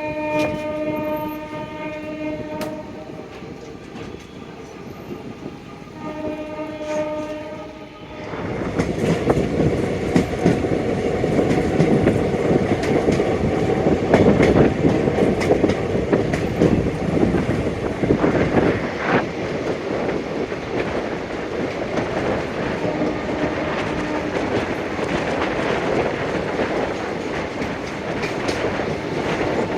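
Train horn sounding twice, a long blast then a shorter one, over the hum of a moving train. About eight seconds in, a much louder rumble and rapid clatter of wheels on rail joints sets in and keeps going, with a faint horn note again later.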